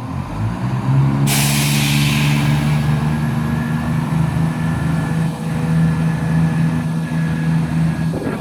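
Class 170 Turbostar diesel multiple unit pulling away: its underfloor diesel engines rev up in the first second, then run at a steady note. A sudden loud hiss of air comes about a second in and fades over the next couple of seconds.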